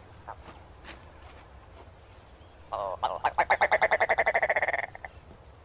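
Male ptarmigan calling: a short note, then a fast croaking rattle lasting about two seconds, a courtship call.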